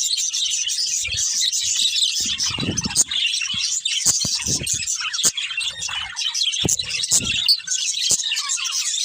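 A flock of budgerigars chirping and chattering continuously, with several dull thuds and sharp clicks scattered through the middle.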